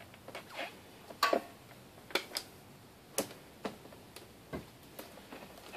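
A dozen or so irregular sharp plastic clicks and taps as bulb sockets and wiring connectors are worked loose from a car's plastic headlight housing.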